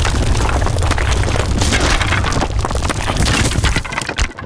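A tall man-made mound of shingle and soil collapsing: a loud low rumble mixed with many cracks and crashes, dying away about four seconds in.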